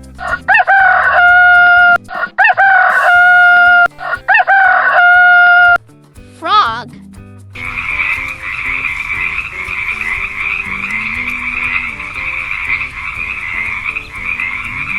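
A rooster crowing three times, each crow held for about a second and a half, followed by a short rising swoop. From about halfway, a steady chorus of frogs croaking takes over.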